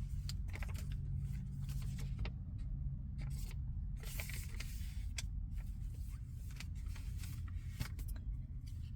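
A steady low hum with many short, scattered rustles and clicks over it.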